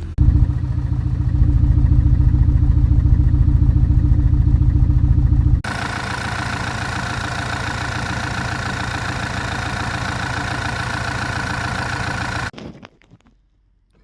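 VW/Audi EA888 turbocharged four-cylinder petrol engine idling with an even pulse, on an engine suspected of misfiring from a stuck-open direct injector. About five and a half seconds in the sound abruptly turns thinner and brighter, and it cuts off sharply near the end.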